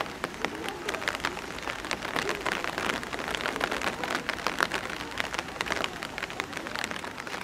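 Steady rain falling, with many separate drop strikes.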